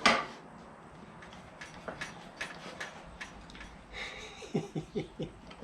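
A sharp metal clack, then scattered light metallic clicks and knocks from hand tools working on an old Land Cruiser engine.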